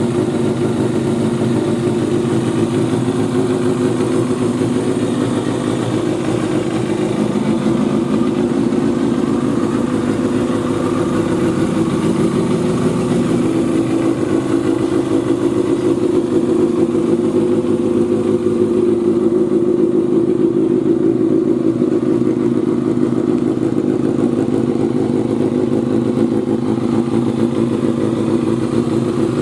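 Kawasaki Balius-II's 250 cc inline-four engine running steadily through an aftermarket muffler, with only small swells in its level.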